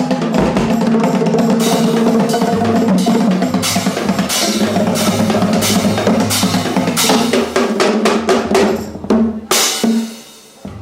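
Music with a drum kit playing, bass drum and snare over sustained instruments. Near the end it breaks into a few separate drum strikes, and then the level drops.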